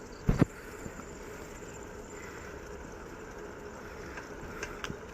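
Steady rolling noise of a bicycle ride, with one short, loud thump about a third of a second in and a few faint clicks near the end.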